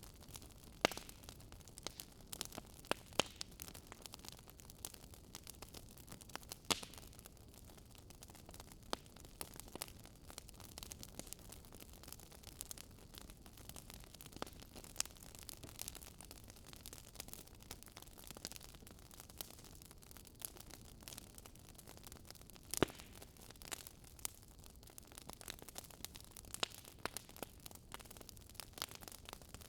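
Wood fire crackling in a fireplace: irregular sharp pops and snaps over a faint steady hiss of burning, with a few louder pops about 1, 3, 7 and 23 seconds in.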